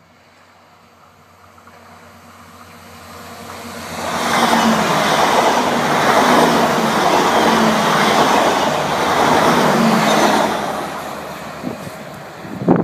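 French regional passenger train approaching and passing close by at speed. Its rush builds over the first few seconds, stays loud for about six seconds as the cars go by, then fades as it draws away.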